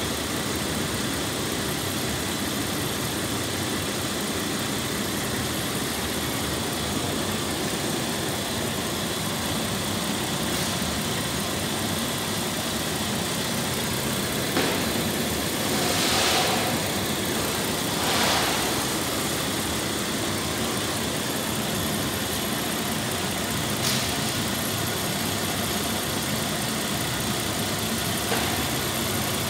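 Holden Commodore 3.6-litre V6 engine idling steadily. Two brief rustling sounds come about halfway through.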